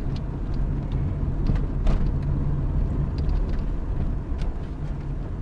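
A car driving on the road, a steady low rumble of engine and tyres, with several short knocks scattered through it.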